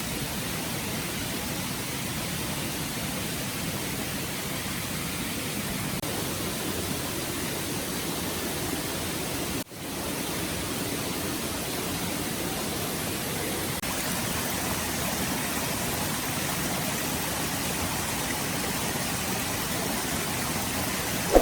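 Stream water running steadily, with a brief drop-out about ten seconds in.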